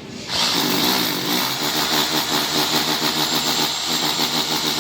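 A handheld electric power tool starts about a third of a second in and runs steadily at full speed, with a loud high-pitched hiss over a motor hum.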